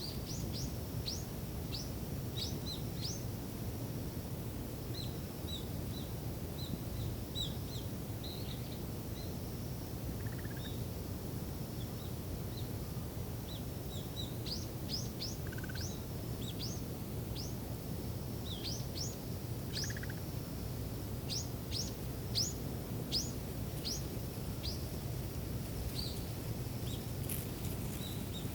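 Wind over a ripening rice field makes a steady low rumble, while small birds call in runs of short, high chirps that sweep downward, thickest in the second half.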